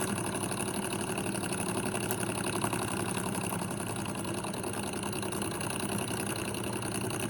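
Model vertical Stirling engine with an aluminium alloy body and copper flywheel running at a steady speed: an even, fast mechanical whir.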